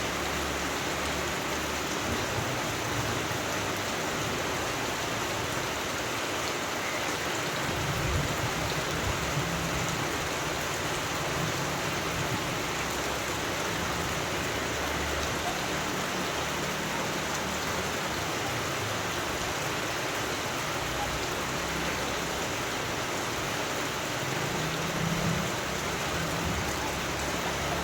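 Steady rain falling, an even hiss of drops, with faint low rumbles about a third of the way in and again near the end.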